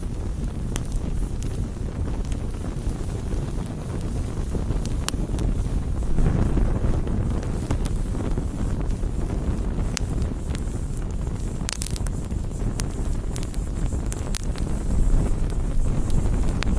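Wood campfire burning: scattered sharp crackles and pops over a low, steady rumble that swells about six seconds in.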